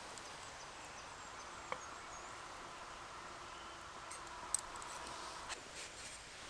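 Quiet forest ambience with a faint steady high tone held for a few seconds and a few isolated sharp clicks and snaps, the loudest about four and a half seconds in.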